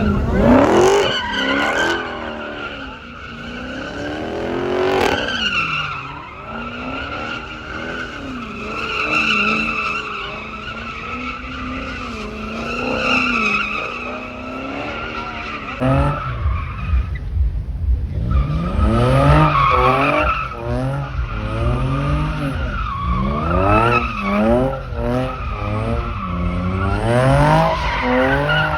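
Ford Mustang GT's V8 revving up and down over and over while its tires squeal in a long skid as the car is spun around. The engine note gets deeper and louder about halfway through.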